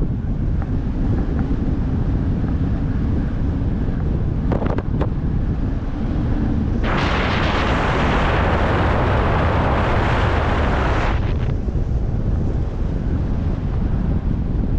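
Wind buffeting the microphone as a steady low rumble, with a loud rushing hiss that starts abruptly about seven seconds in and stops about four seconds later.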